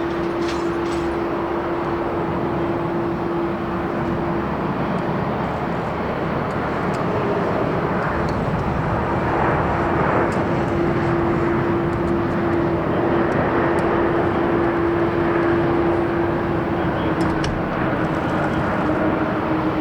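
Jet engines of an ANA Boeing 777-300 airliner landing: a continuous engine noise with a steady hum, growing slightly louder about halfway through.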